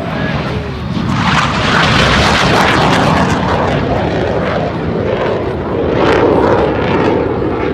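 Loud jet engine noise from a Blue Angels jet in flight. It swells about a second in and stays loud.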